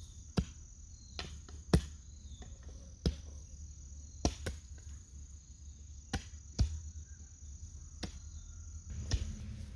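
About eight sharp chopping strikes at irregular intervals, over a steady high-pitched insect trill that stops shortly before the end.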